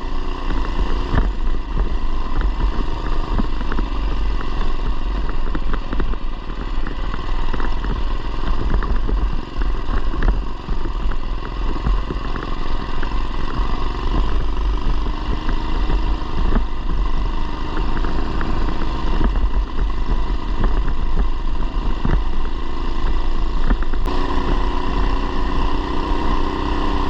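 Mini bike with a 212cc single-cylinder four-stroke engine running steadily while riding, with frequent short knocks and rattles throughout.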